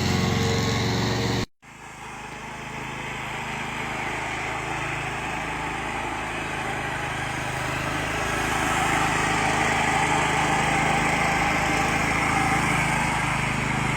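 A small engine running steadily. It drops out abruptly about a second and a half in, then comes back and slowly grows louder.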